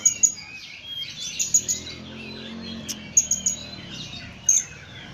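Blue-crowned hanging parrot (serindit) calling: quick runs of three or four sharp, very high chirps, repeated every second or so, over softer twittering.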